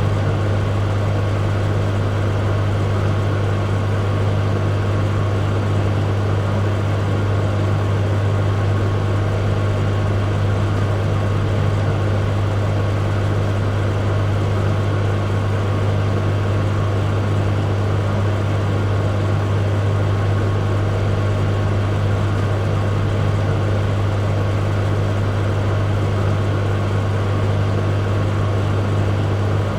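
Microwave oven running: a steady low electrical hum over an even fan-like whir, unchanging throughout.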